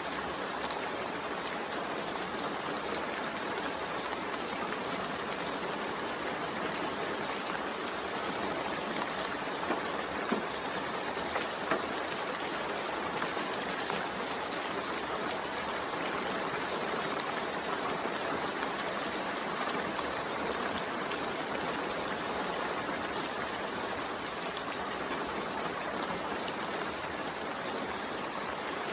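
Steady rain falling, an even hiss of many drops, with a few louder single drop hits around the middle.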